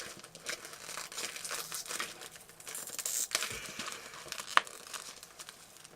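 Plastic packaging of a sealed DVD box crinkling and tearing as it is picked and pulled at by hand, with scattered small clicks and one sharp click about four and a half seconds in.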